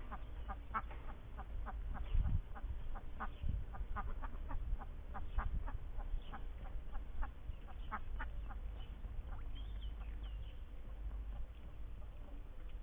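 Indian runner ducks quacking, a quick run of short calls, about two or three a second, that keeps going throughout.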